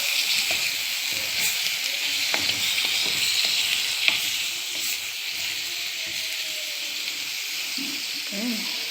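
Chicken, onion and spices sizzling steadily as they fry in oil in a tagine while being stirred, with a few sharp clicks scattered through.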